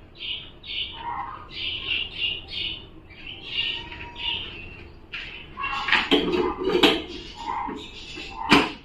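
Birds calling in quick, repeated short notes. There is a brief clatter about six to seven seconds in and a sharp knock near the end.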